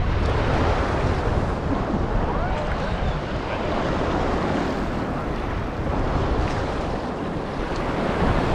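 Waves washing on a beach, with wind buffeting the microphone as a steady low rumble.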